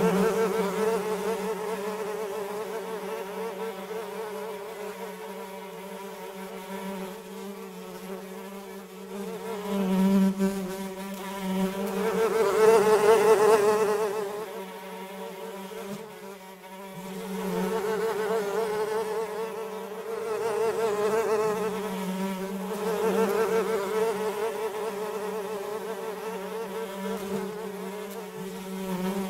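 Flies buzzing in flight: a steady, low, pitched drone that swells and fades in loudness several times.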